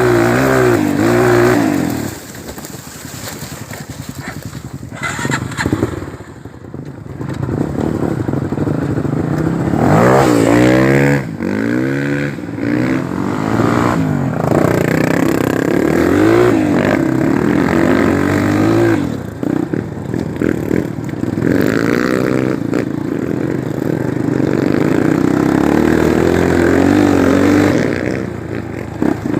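Single-cylinder four-stroke Honda trail motorcycle engine revving up and down over and over while riding, the pitch rising and falling with the throttle. A few seconds in it drops back to a quieter, low-throttle stretch before pulling hard again.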